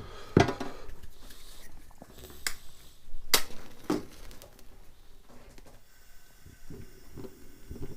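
A few sharp clicks and knocks of kitchenware being handled for cooking on a hot plate, four in the first four seconds, then quieter faint handling.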